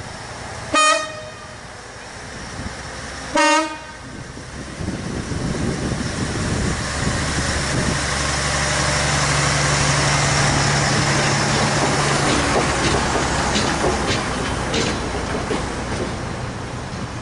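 Balfour Beatty self-propelled engineering train sounding its horn twice, two short blasts about three seconds apart, then running past with a steady engine drone and the clack of wheels over rail joints, easing off near the end.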